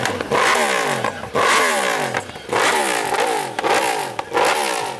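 Superbike engine revved hard in repeated blips, about once a second, the pitch jumping up and sliding back down each time.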